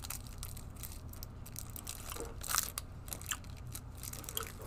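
A person biting into and chewing a coconut candy, with a few sharp crunchy clicks, the loudest about two and a half seconds in.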